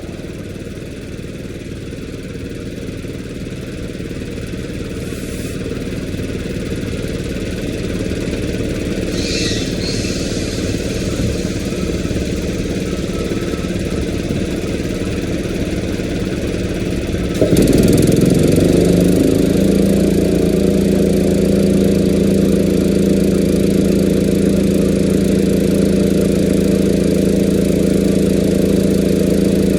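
An engine running steadily. A little over halfway through, a louder machine cuts in suddenly, glides briefly down in pitch and settles into a steady hum.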